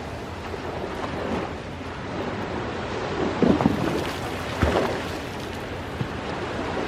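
Ocean waves washing in steadily, with wind on the microphone. There are two brief louder hits around the middle.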